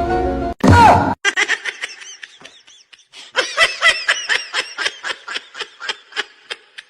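Laughter in quick, repeated high-pitched bursts, following a brief snatch of music at the start.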